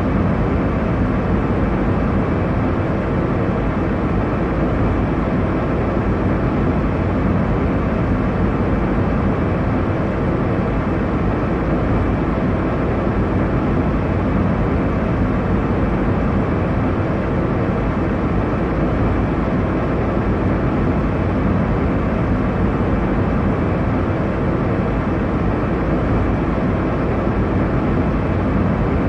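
Airliner cabin noise in cruise: a steady, even rush of engine and airflow noise, strongest in the low range.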